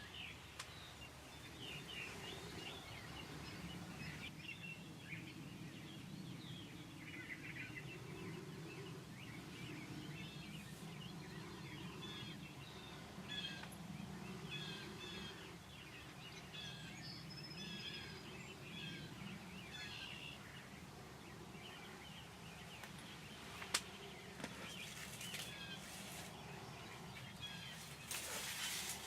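Songbirds chirping over a low outdoor rumble. There is a single sharp click about 24 seconds in and a short rustle near the end.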